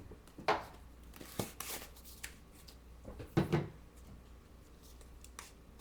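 Craft materials being handled on a tabletop: light rustling and small clicks, with two louder knocks, about half a second in and about three and a half seconds in.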